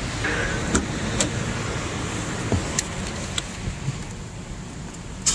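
Several short, sharp clicks and knocks, the loudest near the end, over a low steady background rumble. The car's engine is not yet running.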